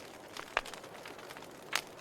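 Log fire crackling: irregular sharp pops of burning wood over a soft steady hiss, with two louder pops, one about half a second in and one near the end.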